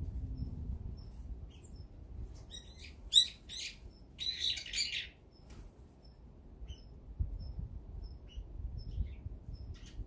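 Wild birds calling: a run of loud, harsh calls from about two and a half to five seconds in, over faint short high notes repeating about twice a second.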